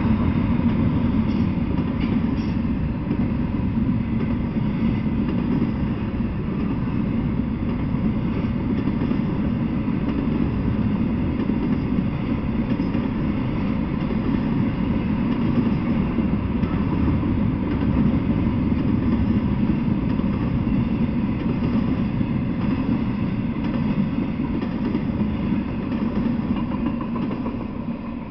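Double-stack intermodal freight train rolling past: the steady rumble and rattle of steel wheels on rail from the loaded well cars, easing off near the end.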